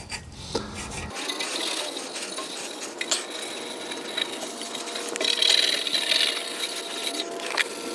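Steady hand rubbing over a vehicle trim part, wiping or scuffing the surface in preparation for paint, with scattered light clicks and knocks.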